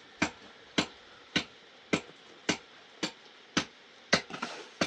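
Steady series of sharp striking blows, evenly spaced at just under two a second, from hand work on the building.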